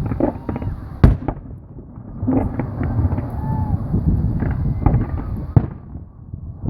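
Aerial fireworks going off in a show: continuous low booms and crackling, with a loud sharp bang about a second in and another near the end.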